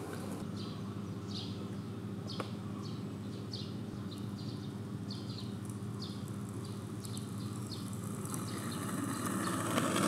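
A small bird chirping over and over, short falling notes about twice a second, over a steady low hum of outdoor background noise. A single sharp click about two and a half seconds in.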